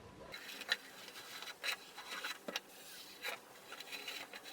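Faint, irregular scraping and ticking of a hand tool cutting along a marked line in a bent PVC pipe.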